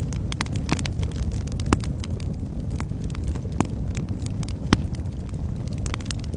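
Wood fire burning in a fireplace: a steady low rumble of the flames with irregular crackles and pops, a few sharper pops standing out.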